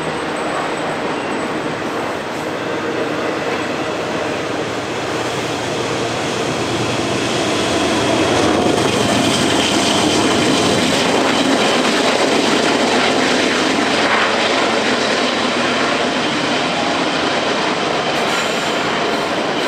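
Freight train rolling past on the main line: a steady, dense noise of cars running over the rails, growing louder about eight seconds in and holding there.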